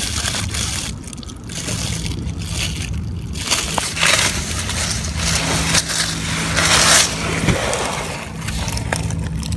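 Rustling and scraping as someone gets down and moves under a car, in uneven noisy bursts, with a low steady hum underneath.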